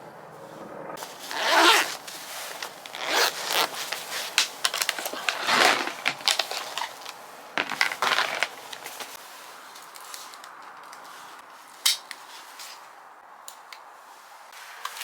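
Rustling and scraping handling noises in irregular bursts through the first half, then a single sharp click about twelve seconds in.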